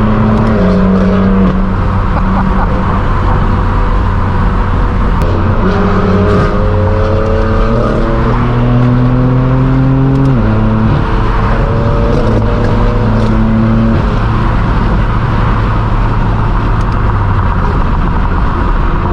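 Straight-piped BMW M4 F82's twin-turbo inline-six running loud under way through its non-resonated AWE track exhaust. The engine note climbs slowly and then drops abruptly a few times, as with gear changes.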